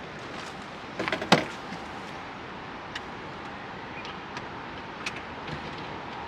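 A quick cluster of knocks and clatters about a second in, the last one sharp and loudest, followed by a few faint ticks, over a steady hiss of background noise.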